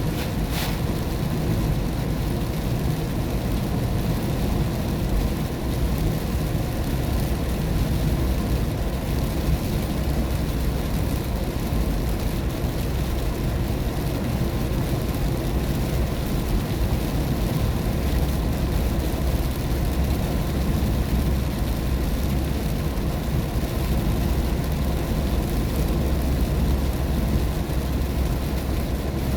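Steady low rumble of a car driving on a wet road, heard from inside the cabin, with tyre and rain noise. A brief sharp sound about half a second in.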